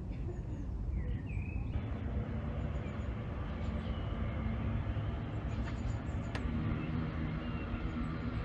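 Steady low outdoor rumble, with a few short bird chirps, one about a second in and more around four seconds in.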